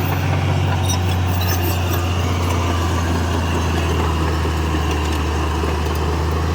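Heavy diesel engine of earthmoving machinery running steadily at constant speed, a deep even drone.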